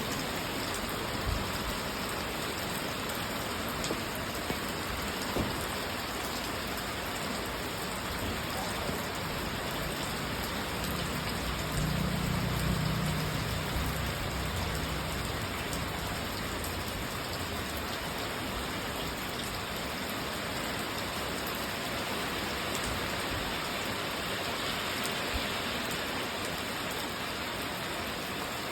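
Steady rain falling, an even hiss, with a few sharp drip-like taps in the first few seconds and a low rumble for a few seconds around the middle.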